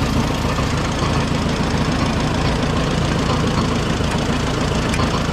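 Allis Chalmers WD tractor's four-cylinder engine idling steadily.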